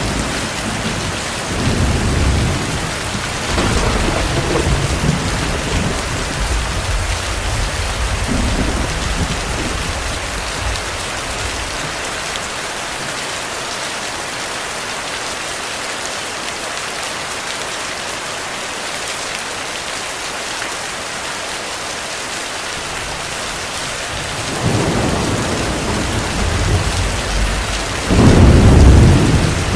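Steady heavy rain with rolling thunder. Rumbles fade out over the first half, then a louder roll of thunder builds in the last few seconds.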